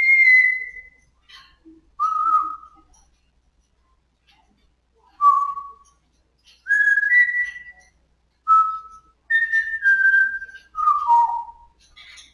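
African grey parrot whistling a series of about eight clear notes with gaps between them. Some are single held notes; others are two-note phrases, one stepping up and later ones stepping down.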